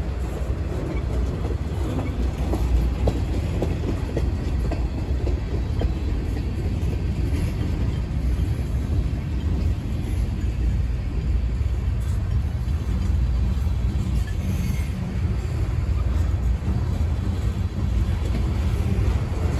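Freight train rolling past: a steady low rumble of wheels on the rails, with a few sharp clicks in the first few seconds.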